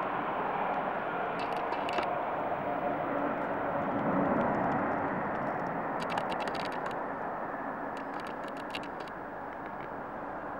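Jet engines of a Boeing 747-400, a steady rumbling roar that swells about four seconds in and then slowly fades. A few faint clicks come through on top.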